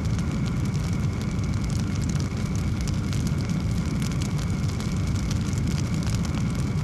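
Wood fire burning in a fireplace: a steady low rumble of flames with frequent small, sharp crackles and pops throughout.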